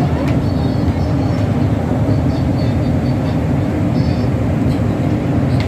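Steady low rumble of a passenger ship's engines and machinery heard on board.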